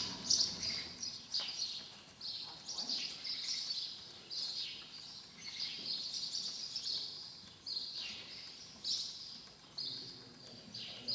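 Small birds chirping repeatedly, short high chirps coming irregularly about once a second.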